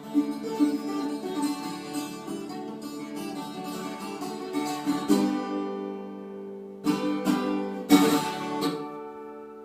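Viola caipira, the Brazilian ten-string folk guitar, picked in a quick run of notes. About halfway through it settles on a chord, then comes a few sharp strummed chords, the last one left ringing and fading.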